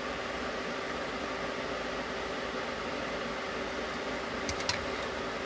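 Steady background fan hum, with a few small clicks about four and a half seconds in as small parts are handled and fitted.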